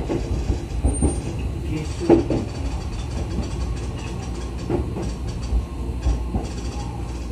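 Running noise of a JR East E131 series electric train heard from its rear cab: a steady low rumble, with sharp wheel clicks over rail joints and points at irregular intervals.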